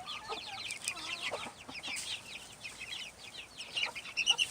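A brood of baby chicks peeping, many short high falling peeps overlapping without pause, with a few louder peeps near the end.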